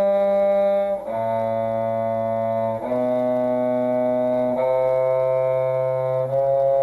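Bowed violin and cello playing a slow drill of long, held single notes. The notes step up G, A, B, B sharp, C sharp, changing about every second and a half to two seconds: a practice run of half-step finger placement.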